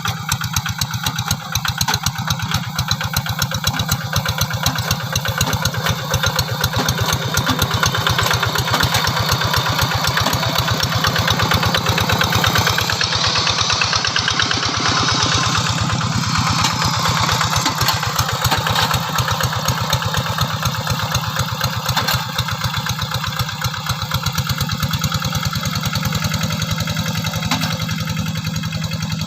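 Engine of a Quick G3000 two-wheel hand tractor running steadily while plowing, a fast, even chugging. A louder hiss rises briefly about halfway through.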